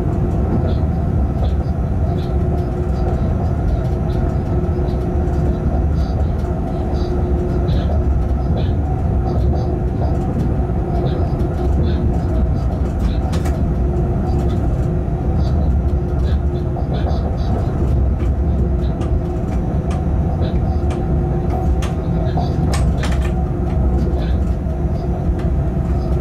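Freight train locomotive cab at running speed: a steady low rumble of the train and its wheels on the rails, with a faint hum that comes and goes and light intermittent ticks.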